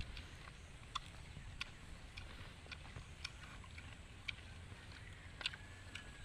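Close-up eating sounds: irregular sharp clicks of chewing and mouth smacks, a few per second, over a low steady hum.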